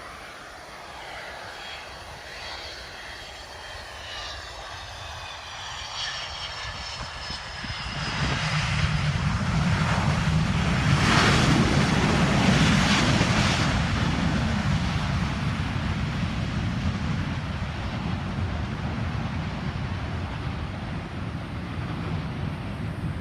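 Jet airliner passing by on the runway: a high engine whine falling in pitch, then a loud roar with a deep rumble that builds to a peak about halfway through and slowly dies away.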